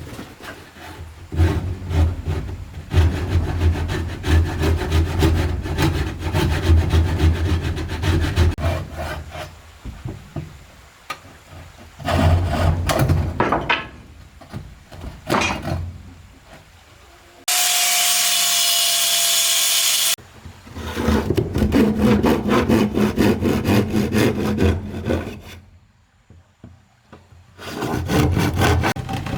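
Wood being sawn in several runs of quick, rhythmic strokes, broken by pauses. Midway there is a separate, steady sound with a few held tones lasting about two and a half seconds.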